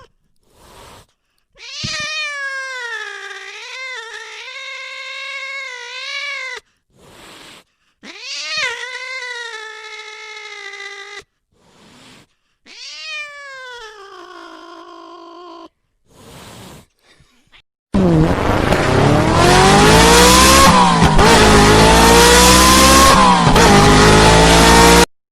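A domestic cat giving three long, drawn-out meows with wavering pitch, separated by pauses. Near the end a much louder, harsh sound with pitch sliding up and down takes over for about seven seconds and cuts off suddenly.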